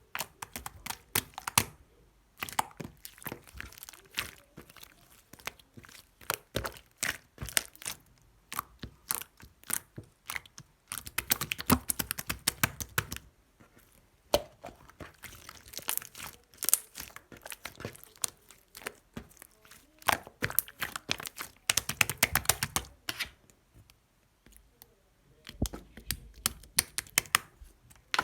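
Clear slime being squished, stretched and folded by hand: rapid sticky pops and crackling clicks in bursts of a few seconds, with short pauses between them.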